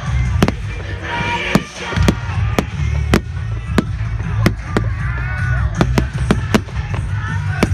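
Fireworks going off in quick succession: sharp bangs at about two a second, over music with a heavy low beat.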